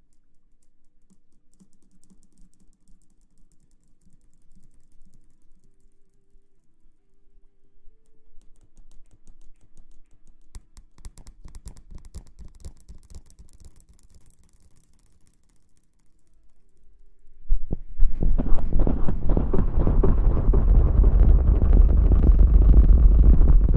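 Faint, scattered crackling and tapping close to the microphone, typical of ASMR rustling. Then, near the end, loud electronic music with heavy bass starts suddenly.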